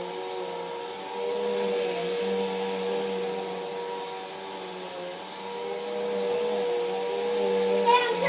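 Vacuum cleaner running with a steady motor hum and whine that swells and eases in loudness. A brief wavering, higher-pitched sound comes in right at the end.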